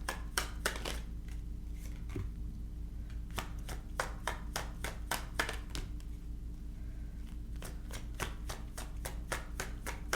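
Tarot cards being shuffled by hand: clusters of quick clicks and snaps from the card edges, with a steady low hum underneath.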